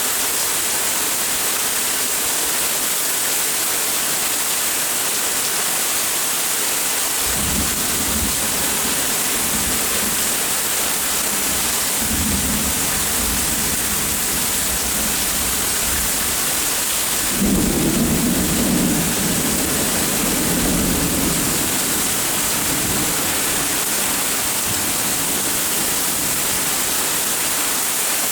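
Steady rain with rolling thunder. Rumbles build about seven seconds in and again a few seconds later, and the loudest, longest peal comes a little past the middle and slowly dies away.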